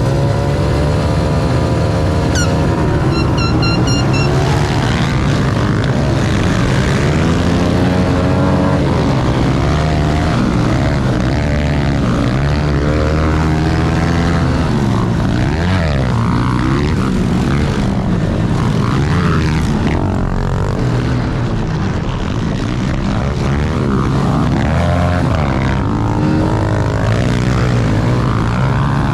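Several small pit bike engines running and revving together, their pitch sweeping up and down as they accelerate and shift, over a steady low engine drone.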